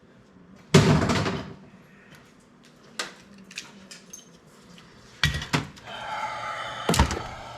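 Metal clanks and knocks from scrap computer parts being handled: a loud clank about a second in, a few smaller knocks, then a ringing metallic scrape near the end broken by another clank.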